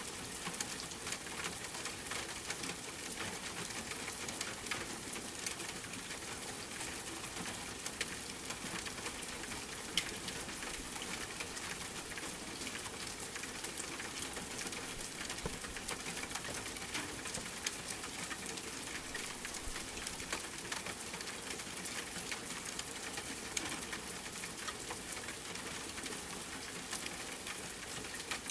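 Steady rain mixed with the crackle of a wood fire: a constant hiss dotted with small pops, one sharper pop about ten seconds in.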